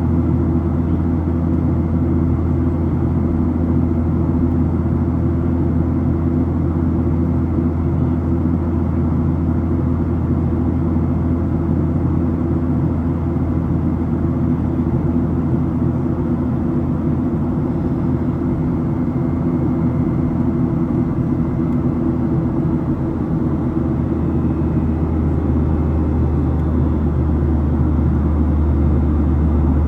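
Boeing 737-700 airliner's CFM56 engines and airflow heard inside the passenger cabin as a loud, steady low drone with a few steady hum tones. The lowest hum deepens a little about three-quarters of the way through.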